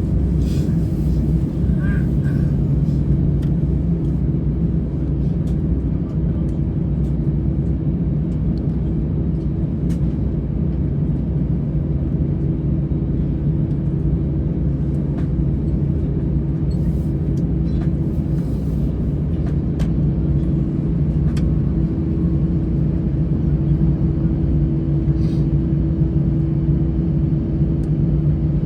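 Cabin noise of an Airbus A320-214 taxiing: its CFM56-5B engines at low thrust give a steady rumble with a constant low hum, and a few faint clicks and rattles sound in the cabin.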